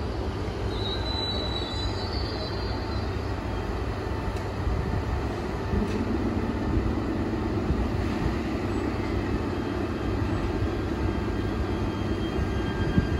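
E3-series Shinkansen train running by on conventional track, a steady rush of wheels and running noise that grows a little louder about six seconds in.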